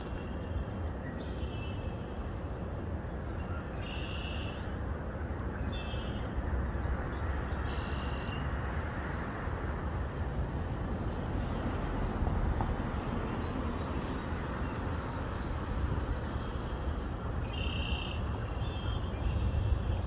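Short, high bird chirps come a few at a time every couple of seconds in the first half and again near the end, over a steady rushing background noise.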